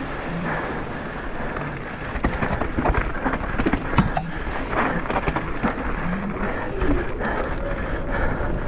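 Mountain bike descending rough ground at speed: wind buffets the microphone over tyre noise on dirt and rock, with frequent irregular clacks and rattles as the bike hits bumps, busier from about two seconds in.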